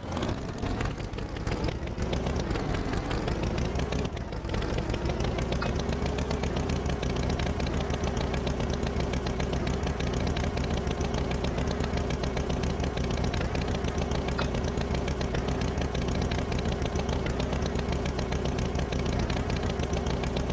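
Tractor engine running steadily with a fast, even putter; it rises in pitch at the start, then holds steady and gets slightly louder about four seconds in.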